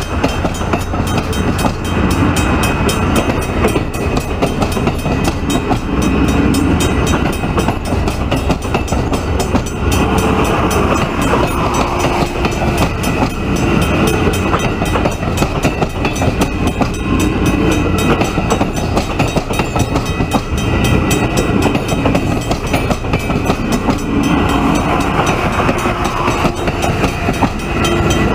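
Via Rail passenger train rolling past at a level crossing: a loud, steady rumble of wheels on rails that continues without a break.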